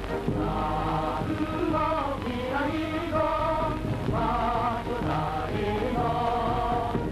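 Soundtrack music with a choir singing held notes in phrases about a second long.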